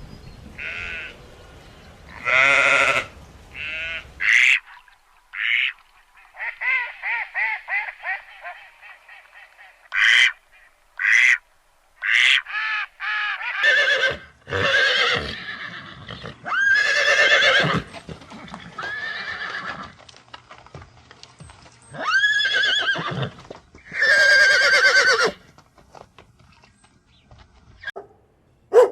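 Several different farm and domestic animals calling one after another, each in short, separate calls with brief gaps between them.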